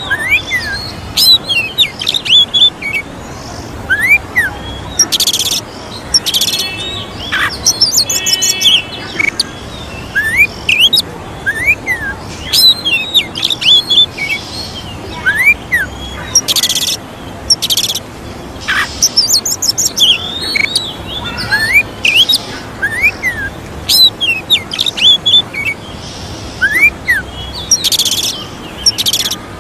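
Oriental magpie-robin song: a continuous string of short, varied whistled notes that sweep up and down in pitch, broken by occasional harsh, rasping notes.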